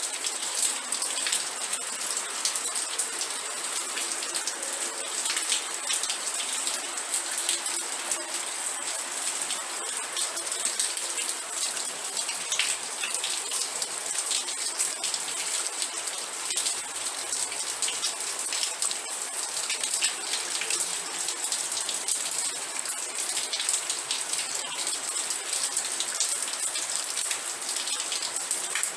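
Steady rain falling on a surface, a dense patter of many small drops hitting with no pauses.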